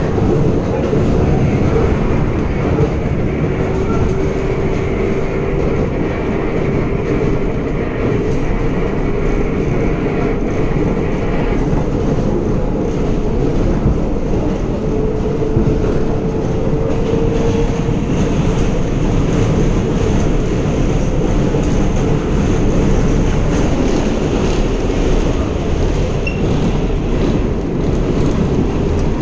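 A 7 subway train in motion, heard from on board: a steady rumble of wheels on the rails with some clickety-clack and a faint whine.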